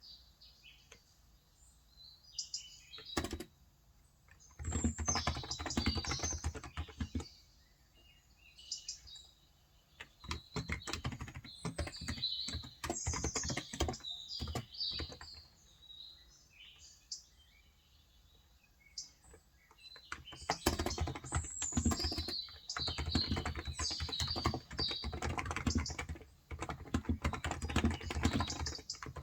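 Typing on a Cox Endeavour electrostatic capacitive (Topre-style) tenkeyless keyboard with 35 g switches, in runs of rapid key presses broken by short pauses. Small birds chirp throughout.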